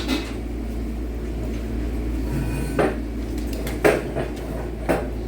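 Steady low road drone inside a moving vehicle, with three sharp clunks about a second apart in the second half.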